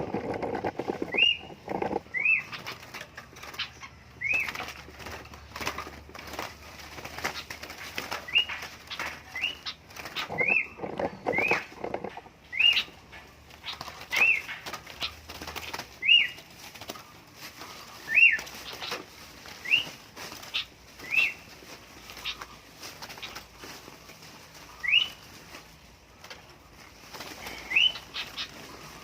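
Captured sooty-headed bulbuls (kutilang) giving short, sharp rising chirps every second or two, with their wings flapping and rustling in between, loudest in the first couple of seconds and again about a third of the way in.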